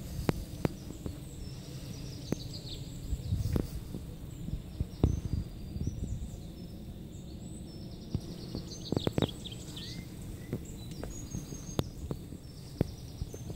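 Small birds chirping in short bursts, heard over a steady low rumble, with scattered sharp taps.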